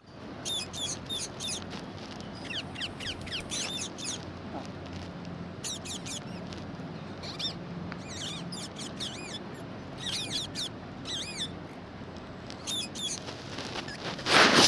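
A pet green parrot chirping in short, high, quick runs of squeaky calls, again and again with pauses between. Near the end a brief loud burst of noise is heard.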